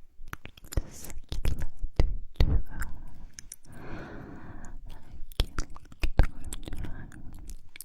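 Close-miked ASMR mouth sounds: a rapid, irregular string of lip and mouth clicks, with a few short breathy stretches in between.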